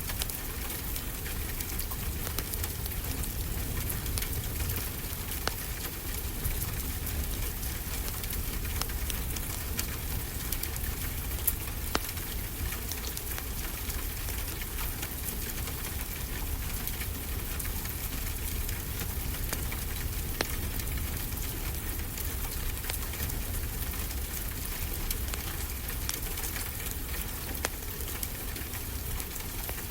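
Steady rain with a wood fire crackling, a few sharp pops standing out over the even hiss of the rain.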